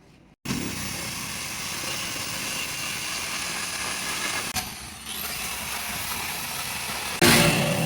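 An engine running steadily, starting abruptly about half a second in, with a sudden louder burst near the end.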